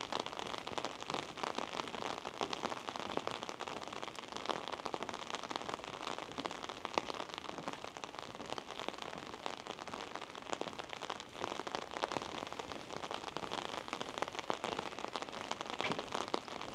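Steady rain falling, a dense, even patter of many small drops without a break.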